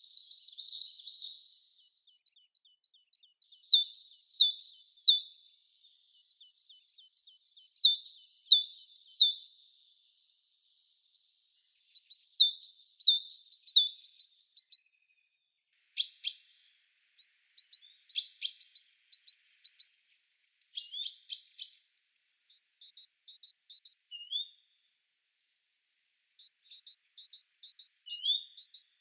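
Small songbirds singing: three loud, twittering song phrases of about two seconds each, spaced about four seconds apart, then shorter, sharper calls in the second half, with a faint rapid ticking trill between the phrases.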